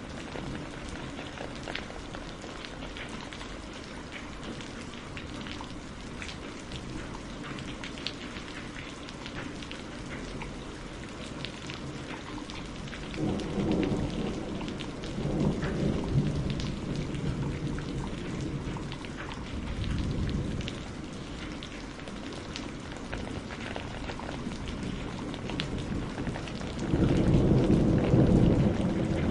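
Steady rainfall with individual drops ticking on a surface throughout. Low rolls of thunder rumble in about halfway through, again briefly a little later, and louder near the end.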